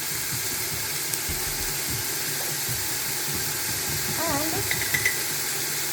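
Onion, scallion, ginger and garlic sizzling steadily as they saute in coconut oil in a soup pot.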